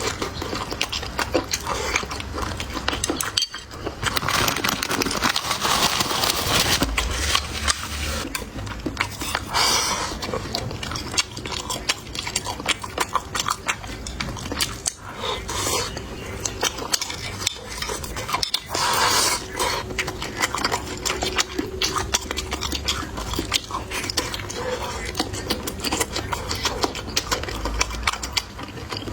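Close-miked eating: utensils clicking and scraping against dishes and bowls, with biting and chewing.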